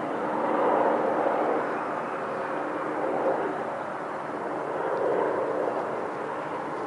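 Helicopter running with its rotor turning: a steady engine and rotor hum with faint steady tones, its loudness rising and falling gently every few seconds.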